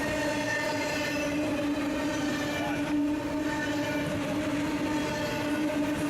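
Freight train running past: a steady pitched drone over the rumble of the cars.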